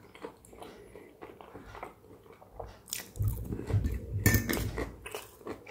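Close-up chewing of a breaded cutlet, with small soft mouth clicks. From about three seconds in it grows louder, with knocks and scraping as a serrated knife cuts the cutlet on a ceramic plate.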